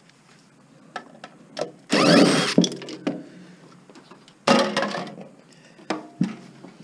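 A part being pulled and worked off a scrapped appliance: two loud bursts of rattling and scraping, with scattered clicks and knocks between them.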